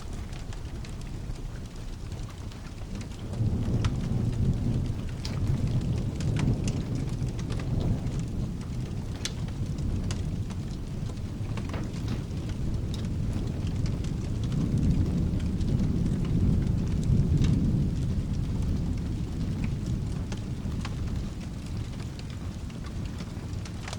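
Steady rain with rolling thunder: a deep rumble swells about three seconds in and again a dozen seconds later, then eases off. Scattered sharp clicks sound over the rain throughout.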